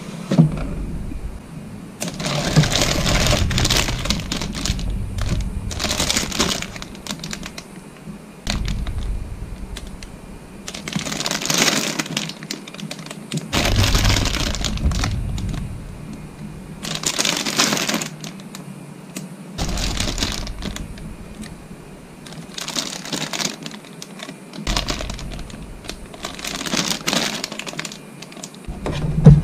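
Plastic model kit parts and packaging being handled, with repeated bursts of crinkling, crackling and clicking.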